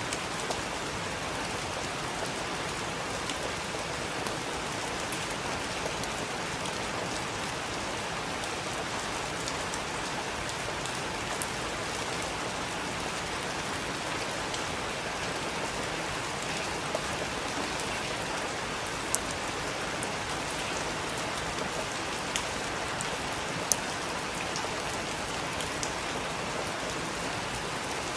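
Heavy rain falling steadily, with sharp drop ticks landing close by now and then.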